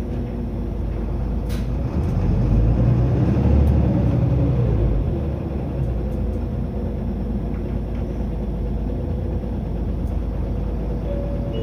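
Running sound of a Toei Mitsubishi Fuso Aero Star city bus (LKG-MP37FKF) and its 6M60 turbo diesel, heard from on board. About two seconds in, the engine pulls louder under acceleration for a few seconds, then settles to a steady cruising drone.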